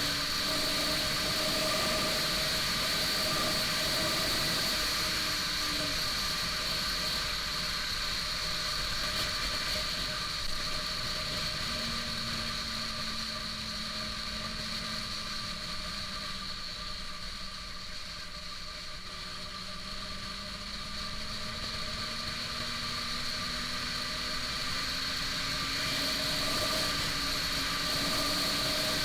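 Honda CBR600RR inline-four engine running under way with steady wind and road noise, its note easing lower through the middle and climbing again near the end.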